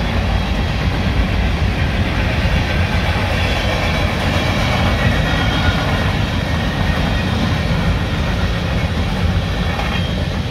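Covered hopper cars of a long mixed freight train rolling past, a steady noise of steel wheels running on the rails.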